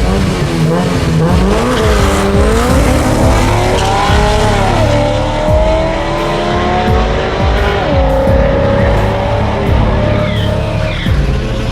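A car engine accelerating hard under full throttle. Its pitch climbs steadily and drops sharply at gear shifts about four and a half seconds and eight seconds in.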